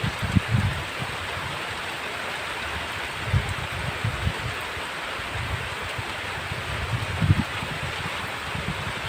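Heavy rain falling with a steady hiss, with short low rumbling gusts coming and going several times.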